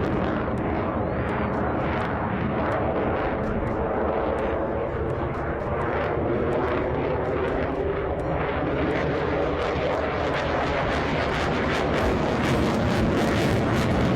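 Fighter jet engine noise, steady and unbroken throughout.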